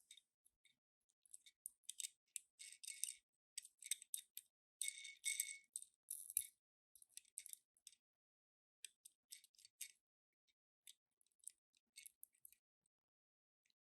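Faint crinkling, crackling and clicking of small toy-car packaging being handled and opened, in irregular bursts that are busiest a few seconds in and thin out toward the end.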